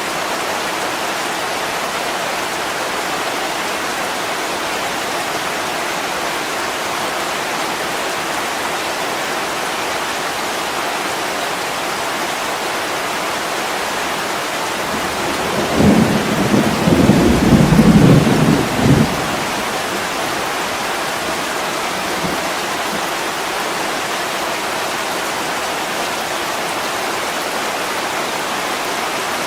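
Heavy rain pouring steadily against a window. A low rumble of thunder swells up about halfway through and dies away after a few seconds.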